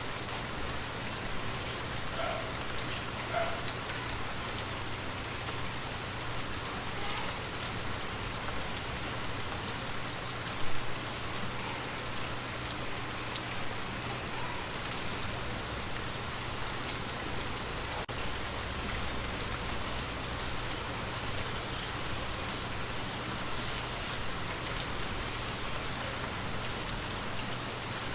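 Steady rain falling on a surface, an even hiss of many drops. A single louder tap stands out about ten seconds in.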